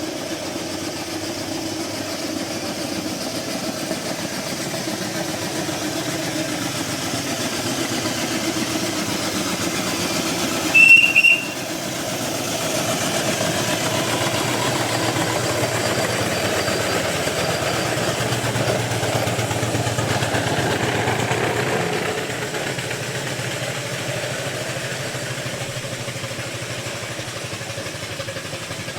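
Miniature steam traction engines running steadily, growing somewhat louder for several seconds in the middle. A short, high whistle sounds about eleven seconds in, the loudest moment.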